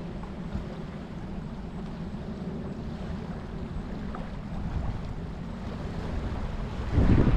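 Ocean surf with wind buffeting the microphone: a steady low rumble that swells louder near the end.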